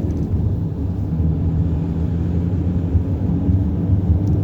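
Chevrolet Cruze 1.6 16V engine and road noise heard from inside the cabin while driving: a steady low hum and rumble at an even engine speed.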